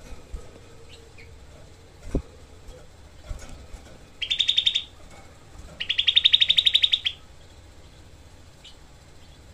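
Grey-bellied bulbul (cucak kelabu) giving its rapid-fire 'tembakan' song: two fast, tightly packed trills of repeated notes, a short one about four seconds in and a longer, louder one about six seconds in. A soft knock sounds about two seconds in.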